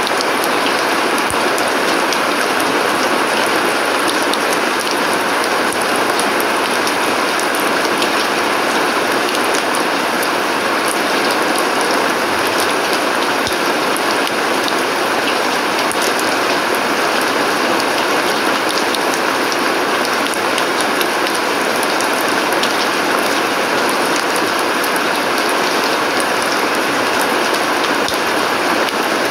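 Steady rain falling on a yard's paving and plants: an even hiss dotted with many fine drop ticks.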